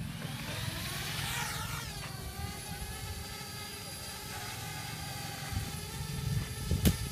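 Parrot Bebop 2 quadcopter's motors and propellers spinning up with a rising whine over about two seconds, then running at a steady pitch as the drone takes off. A sharp click comes near the end.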